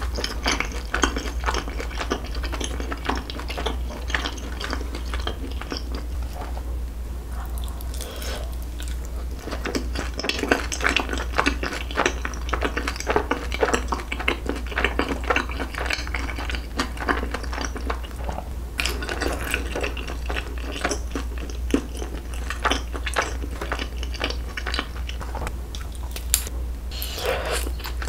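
Close-miked chewing of skewered Korean rice cakes (tteok) in sauce: a dense run of small wet clicks and smacks, over a steady low hum.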